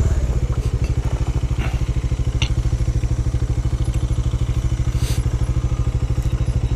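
Bajaj Dominar 400's single-cylinder engine idling steadily, an even thudding pulse of about thirteen to fourteen beats a second, with a few faint clicks over it.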